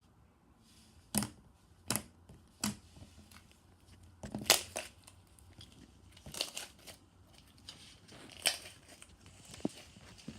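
Crinkling and crumpling handling noises, like packaging being opened and handled, with a series of sharp crackles, three about a second apart near the start and several more later.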